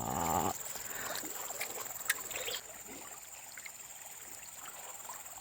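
Faint outdoor ambience: a steady high insect drone, with a soft rushing noise for the first two and a half seconds and a single click about two seconds in.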